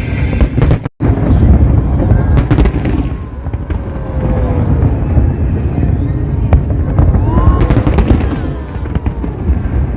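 Fireworks display going off: a dense run of deep booms with sharp crackling bursts, broken by a brief gap about a second in.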